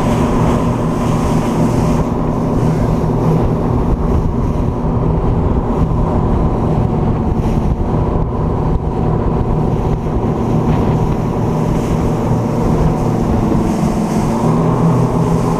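A yacht tender's engine running steadily under way, with wind and water noise.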